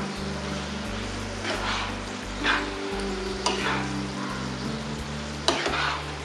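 Minced mutton sizzling in a pan while a spatula stirs spice powders through it, with a scraping stroke every second or so. Soft background music with low held notes runs underneath.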